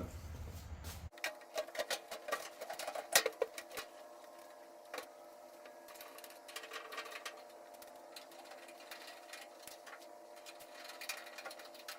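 Scattered clicks, taps and knocks of the dryer's sheet-metal front door panel being handled and fitted back on, with a sharper knock about three seconds in, over a steady faint hum.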